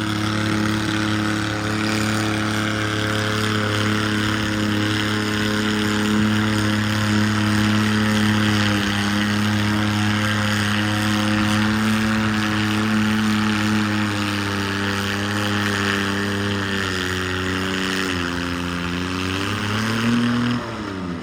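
Garden tractor engine running hard at steady high revs while pulling a weight-transfer sled. Late in the run the pitch sags in two steps as the engine bogs down under load, rises briefly, then drops away as the run ends.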